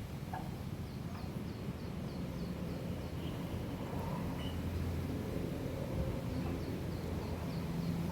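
Outdoor ambience: a steady low rumble with two runs of short, high chirps, about three a second, the first near the start and the second near the end.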